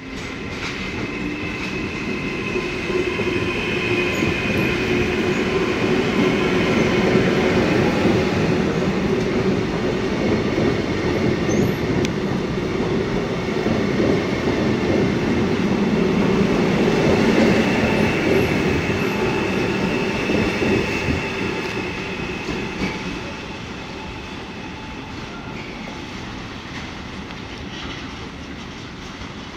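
Trenitalia Rock (ETR521) double-deck electric train passing along the track, its wheels rumbling on the rails under a steady high whine. The sound builds over the first several seconds and fades after about 20 seconds as the train draws away.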